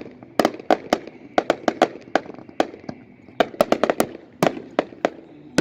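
Fireworks going off: a rapid, irregular series of sharp bangs and cracks, a few each second, with a short lull a little past halfway.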